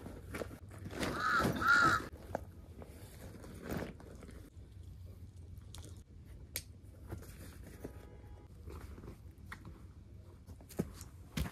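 A bird calling twice in quick succession about a second in, two short calls, followed by scattered faint clicks and rustles.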